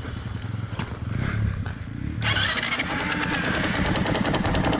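Dirt bike engine running, with the throttle opened about two seconds in into a louder, harsher rev that holds.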